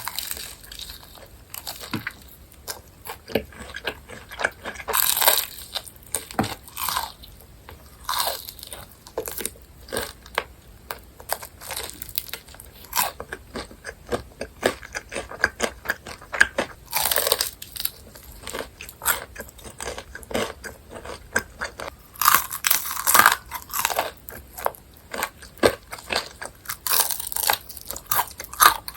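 Crunchy BHC Ppurinkle cheese-seasoned fried chicken being bitten and chewed close to the microphone: crisp crackling bites, several louder ones, with steady crunchy chewing between.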